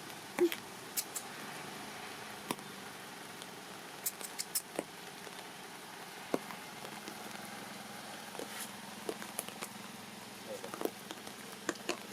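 Light rain: a steady faint hiss with scattered, irregular drips and taps. One short squeak comes about half a second in.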